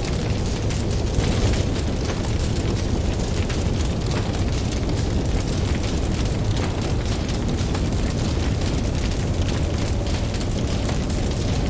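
Campfire crackling, with frequent sharp pops and snaps of burning wood over a steady low rumble.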